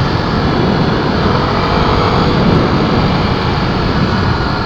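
Honda XR250 Tornado's single-cylinder four-stroke engine running hard as the bike accelerates, mixed with steady wind noise on the camera microphone while riding.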